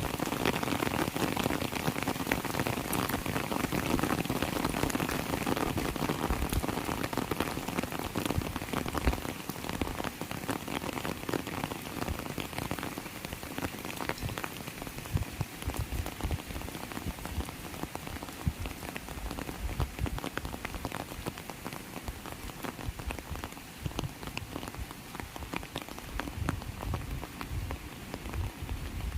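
Heavy rain falling: a dense, steady hiss with many close drops ticking and some low drip thuds, easing a little in strength over the stretch.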